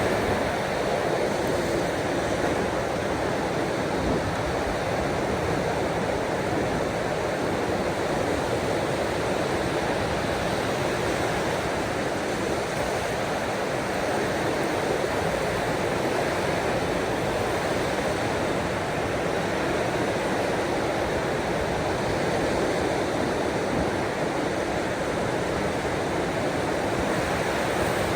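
Ocean waves washing ashore, a steady, even rushing without distinct breaks or impacts.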